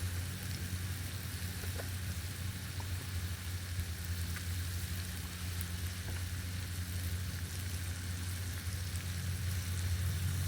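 Food sizzling in a pan, a constant high hiss with faint crackles, over a steady low engine hum.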